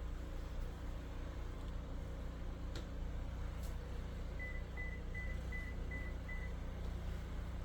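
A car's engine running steadily with a low rumble, while a warning chime beeps six times in quick succession, about two and a half beeps a second, partway through.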